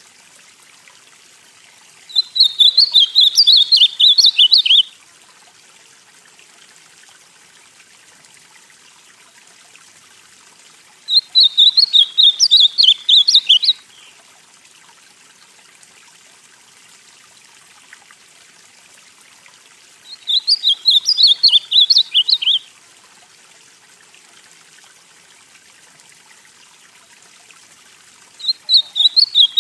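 Ultramarine grosbeak (azulão, northeastern Brazilian form) singing: four short phrases of quick, jumping high notes, each about two and a half seconds long and repeated about every nine seconds, over a faint steady hiss.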